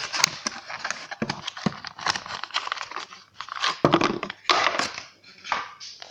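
Cardboard box and plastic packaging of a small model being handled and opened: irregular crinkling and rustling with quick clicks and scrapes.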